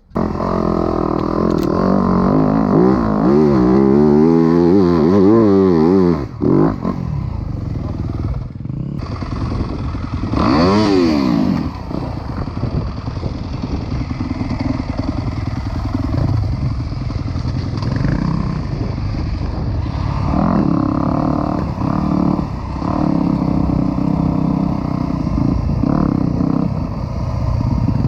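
Dirt bike engine running hard, its revs rising and falling quickly over and over for the first few seconds. About ten seconds in it revs up sharply and drops back, then keeps running at fairly steady revs with some clatter.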